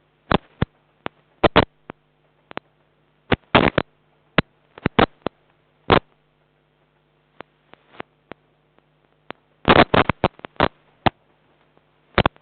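Irregular sharp clicks and ticks, some single and some in quick clusters, over a steady low electrical hum.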